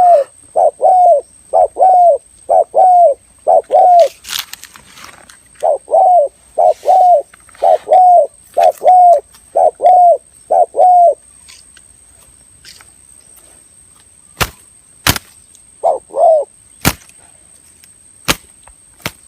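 Spotted dove (tekukur) cooing: a quick run of short coo notes that breaks off about four seconds in, resumes and stops about eleven seconds in, with one more pair of coos later. Several sharp clicks sound in the last few seconds.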